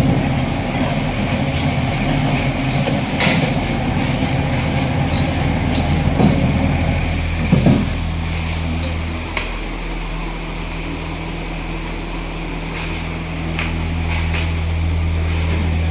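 A steady low mechanical hum, changing pitch about eight seconds in, with scattered short knocks and clinks over it.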